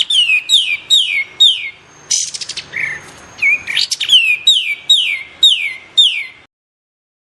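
Recorded song of a kapas tembak bird: sharp whistled notes that each sweep steeply downward, repeated about twice a second, broken by a brief rapid rattle, then cut off abruptly near the end.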